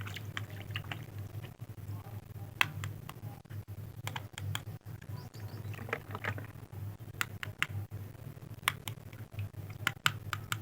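Irregular light clicks and taps of small hard objects being handled, over a steady low hum.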